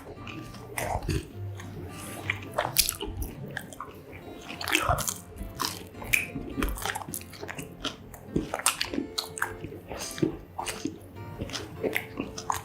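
Close-miked eating of fried mozzarella corn dogs: repeated bites into the crisp batter, with many short sharp crunches and chewing.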